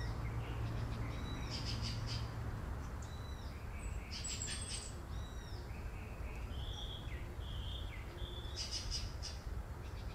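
Birds calling in the background: short arched chirping calls repeat every second or two, over a low steady rumble of outdoor ambience.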